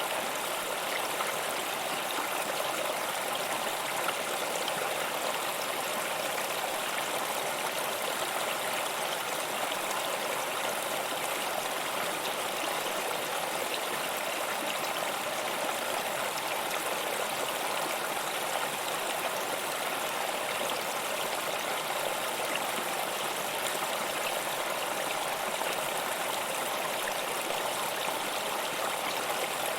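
Running water, an even and unbroken rush.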